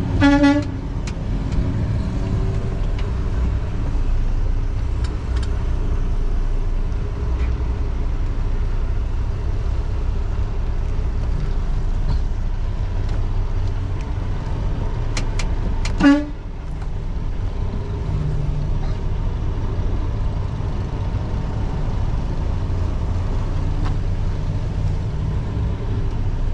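Steady low rumble of a semi-truck's engine and road noise inside the cab while driving. Two short high-pitched sounds cut through it, one right at the start and one about sixteen seconds in.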